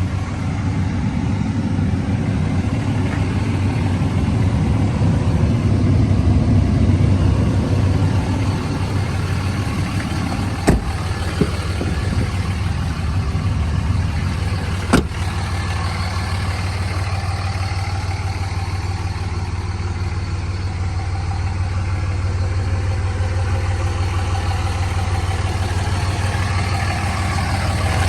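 Dodge Ram 2500's 5.9 Cummins inline-six turbo diesel idling steadily, with a few sharp clicks about 11 and 15 seconds in.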